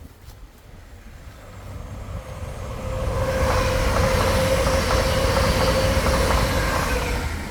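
A train passing on the railway line. It builds over a couple of seconds, runs loudest for about four seconds with a steady whine over a broad rumble and hiss, then fades near the end.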